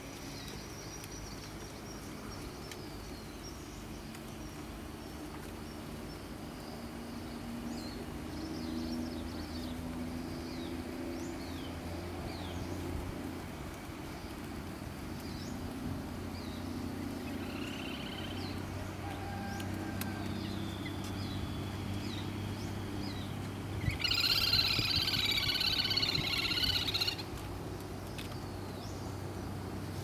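Wild birds calling: scattered short high chirps over a low steady hum, with one loud, high trilling call lasting about three seconds near the end.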